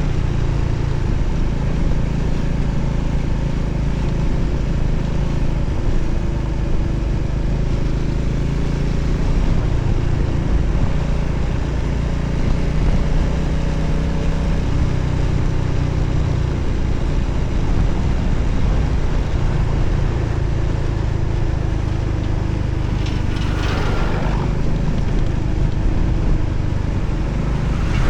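Single-cylinder Voge 300ACX motorcycle engine running steadily at road speed under a constant rush of wind noise, its pitch shifting a few times with the throttle. Near the end a short falling tone passes.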